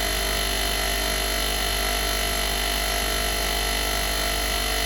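A steady electrical hum and whine made of several fixed tones over a hiss, unchanging throughout with no knocks or breaks.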